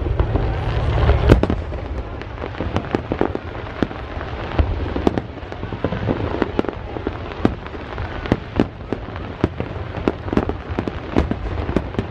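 Fireworks going off: a dense run of sharp pops and crackles over a low rumble, with a louder bang about a second in.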